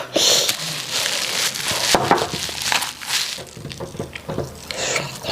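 Close-miked wet mouth sounds of eating starch with white soup: an irregular run of sticky smacks, clicks and chewing.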